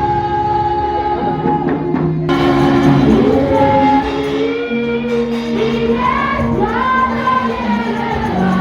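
Gospel music: voices singing over long held instrumental notes.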